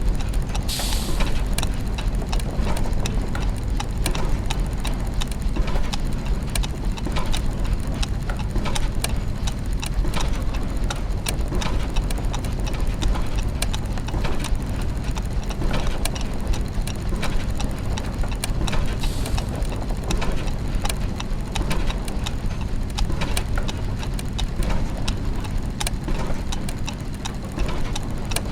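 Clockwork and gear mechanisms running continuously: many overlapping ticks, clicks and ratcheting over a low steady hum, with a short hiss about a second in and again about 19 seconds in.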